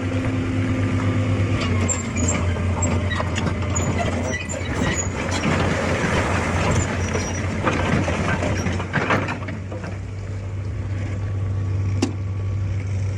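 Excavator diesel engine running steadily, with scattered knocks and scraping of the bucket working rock and soil, busiest in the middle and ending with a sharp knock near the end.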